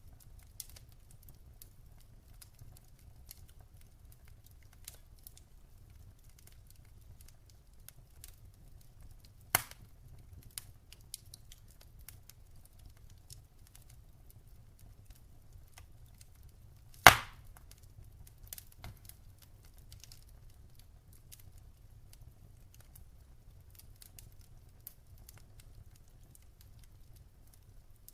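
Wood fire in a fireplace crackling: scattered small clicks and snaps over a low steady rumble, with two loud pops, one about ten seconds in and a louder one near seventeen seconds.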